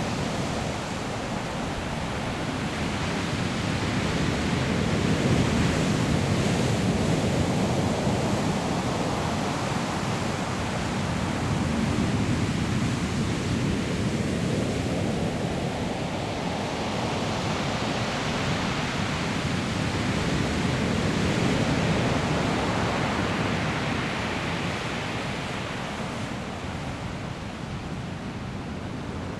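Sea surf breaking on a pebble shore: a continuous rushing wash that swells and ebbs as successive waves come in and draw back, easing off a little near the end.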